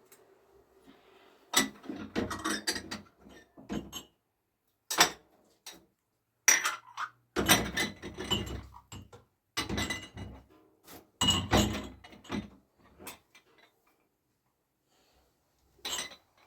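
Dishes and pots clinking and knocking together as they are handled, in irregular clusters of sharp clatters with short gaps between them.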